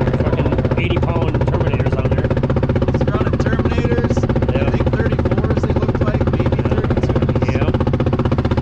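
ATV engine running steadily at an even speed, with a low, rapidly pulsing note that does not change, and faint voices in the background.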